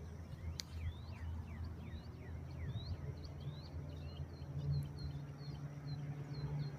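A songbird calling over and over in short, downward-sliding chirps that come faster and shorter in the second half, over a steady low hum of background noise.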